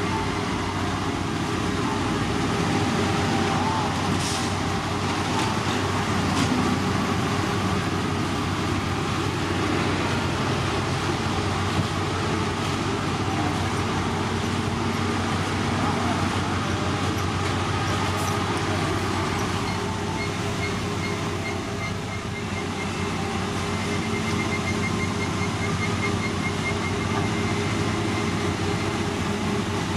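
Heavy diesel construction machinery running steadily, a continuous engine drone with a low hum. In the second half a faint, rapid high-pitched pulsing tone runs alongside it.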